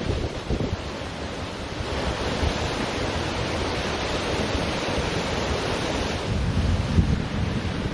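Ocean surf washing onto a beach in a steady hiss, with wind gusting on the microphone in an uneven low rumble.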